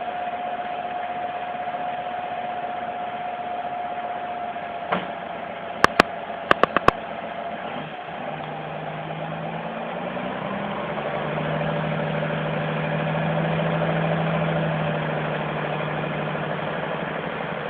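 A vehicle engine running steadily, with a few sharp clicks about six seconds in. A deeper engine note then comes in, grows louder, and fades again toward the end.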